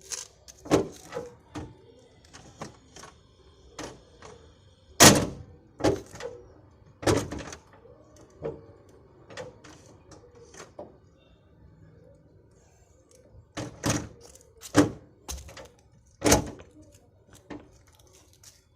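A series of irregular knocks and thuds, about fifteen spread unevenly, the loudest about five seconds in.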